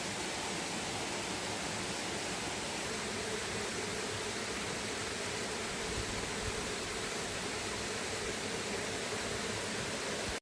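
Steady rushing of a flowing river, an even hiss of water with no breaks.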